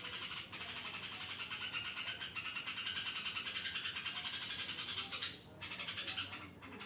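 Yellow-vented bulbul making an unusual call at night: a continuous, fast-pulsing high chatter that breaks off briefly about five seconds in, then resumes in shorter bits.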